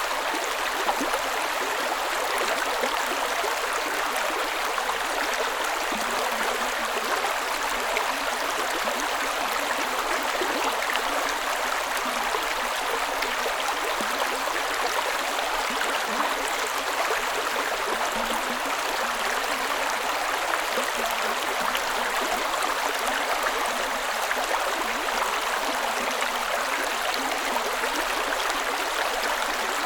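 Creek water running in a steady, unbroken rush.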